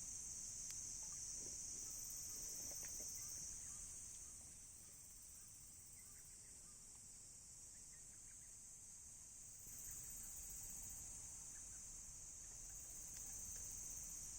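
Faint chorus of crickets, one steady high-pitched trill. It fades about four seconds in and swells back near ten seconds. A few faint crackles from the burning wood fire sound over it.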